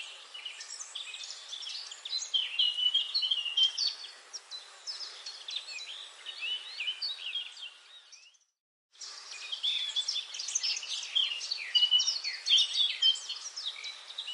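Dense chorus of many songbirds chirping and trilling over one another. About eight seconds in, the sound cuts to silence for about a second, then the chorus resumes.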